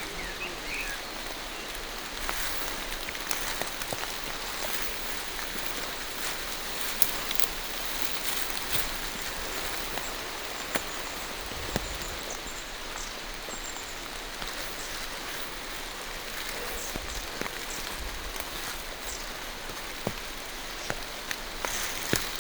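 Steady rain falling on forest foliage, with scattered louder drops ticking sharply through the even hiss.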